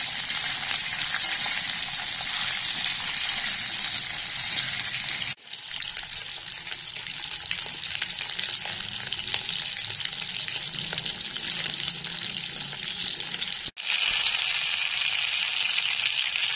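Pointed gourd (parwal) pieces frying in hot mustard oil in a wok, a steady crackling sizzle. It cuts out for an instant twice, about five and fourteen seconds in.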